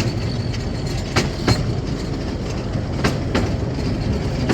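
Miniature railway train running, heard from on board: a steady low rumble with the wheels clicking over rail joints in pairs, about every two seconds.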